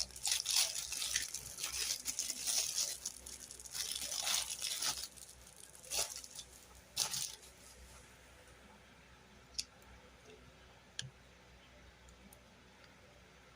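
Crinkling, tearing and crunching of a toy or its packaging being handled, dense for about five seconds, then two sharper crunches and a few faint clicks near the end.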